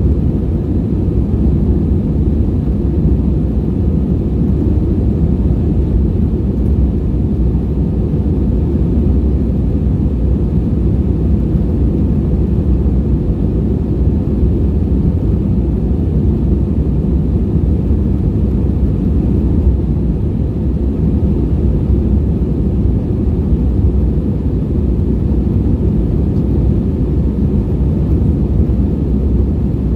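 Airbus A320-232 cabin noise heard from a window seat during departure: the steady low rumble of its IAE V2500 engines and the airflow.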